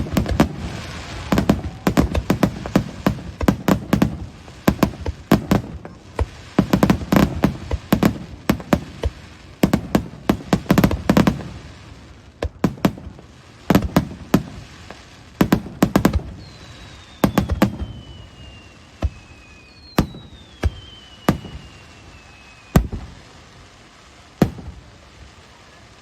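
Fireworks going off: a quick, dense barrage of bangs for about the first eleven seconds, thinning out to a few single bangs near the end. Two long falling whistles come in the second half.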